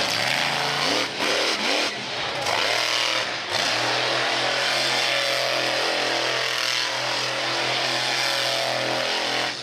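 Monster truck engine revving hard, the throttle briefly dropping off a few times in the first few seconds, then held steady at high revs.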